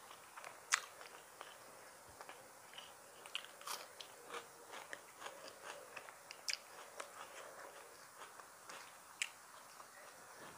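Close-miked eating sounds: a person chewing, with wet mouth clicks and smacks, and fingers mixing rice and curry on a plate. Short, sharp clicks are scattered throughout, the loudest about a second in.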